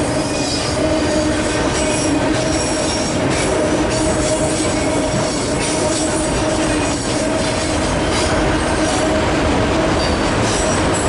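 Empty autorack freight cars rolling past on the rails: a steady, loud rumble of wheels on track with a steady hum, and high-pitched wheel squeals that come and go.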